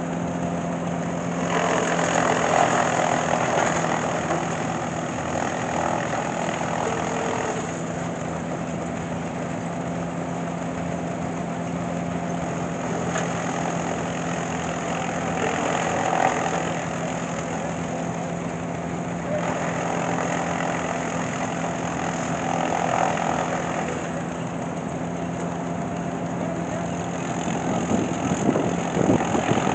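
An engine idling with a steady low hum, while a louder rushing noise swells and fades several times.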